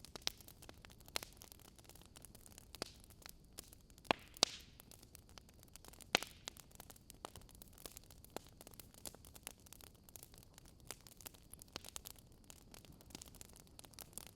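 Fireplace fire crackling: a faint steady hiss with frequent sharp ticks, and a few louder pops about four and six seconds in.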